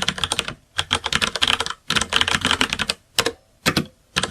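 Computer keyboard typing: rapid key clicks in several quick runs broken by short pauses.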